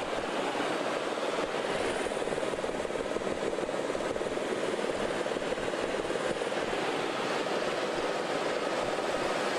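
Helicopter engine and rotor noise heard from aboard, a steady drone with a fast low flutter that holds an even level throughout.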